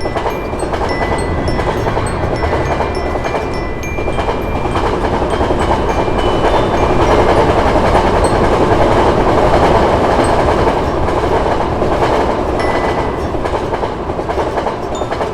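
A train passing through a level crossing: a steady noise of wheels on rails that builds to its loudest around the middle and eases off near the end.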